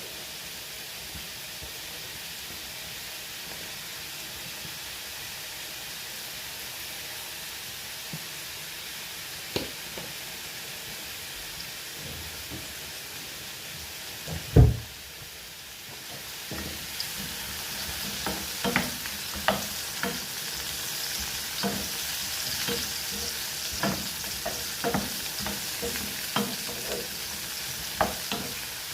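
Food frying in a pan with a steady sizzle. About halfway through there is one loud knock, after which the sizzle grows louder and a utensil stirs, with short taps and scrapes against the pan.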